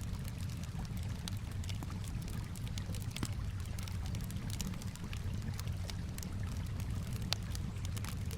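Campfire crackling, with irregular sharp pops throughout and one louder pop near the end, over a steady low rumble of gently moving water.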